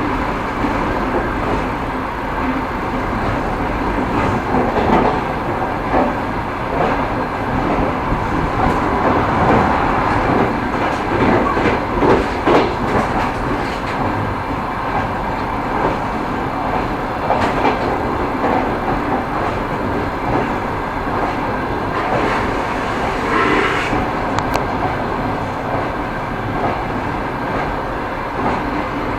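Railway carriage wheels clattering over rail joints as a train rolls along, a steady rumble with repeated knocks. A brief higher-pitched sound cuts in about three-quarters of the way through.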